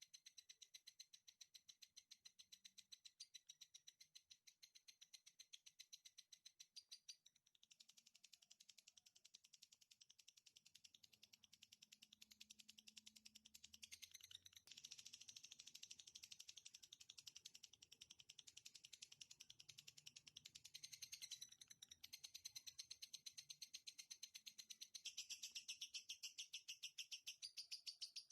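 Songbird masteran (song-tutor) recording: a fast, evenly repeated high-pitched trill of chirps, shifting to a new phrase every several seconds.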